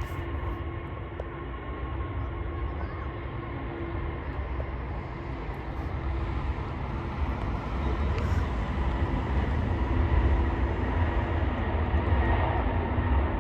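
Jet airliner engines, a steady low rumble with a faint whine that grows gradually louder.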